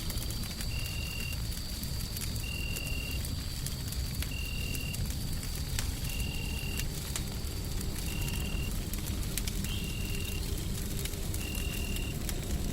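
Wood fire crackling with scattered pops over a steady low rumble of noise. A short high chirp repeats about every one and a half to two seconds, with a faint steady high tone behind it.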